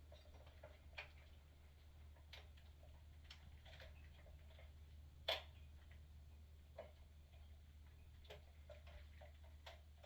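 Near silence with scattered faint clicks and light knocks from wires and wire nuts being handled at the water heater's electrical connection, at irregular intervals; the sharpest click comes about five seconds in. A low steady hum runs underneath.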